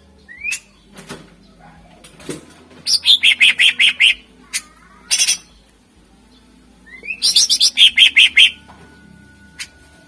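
Green leafbird (cucak ijo) singing loud, sharp phrases. Rising whistled notes lead into rapid runs of harsh repeated notes, twice, with a short burst between them.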